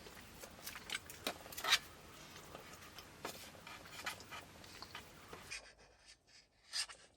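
Campfire crackling: irregular sharp pops and snaps over a soft hiss. The hiss drops out about five and a half seconds in, and a few more pops follow.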